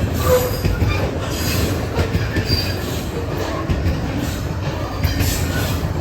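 Norfolk Southern freight train cars rolling past, steady heavy rumble of wheels on rail with brief, scattered squeals from the wheels.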